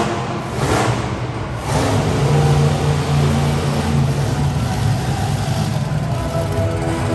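Bigfoot monster truck's engine revving and running hard through its run, with a short noisy burst about a second in.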